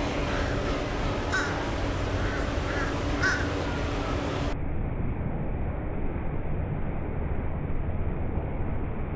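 A steady low outdoor rumble with a few short bird calls about a second and a half and three seconds in. After the middle the sound turns muffled and the calls stop.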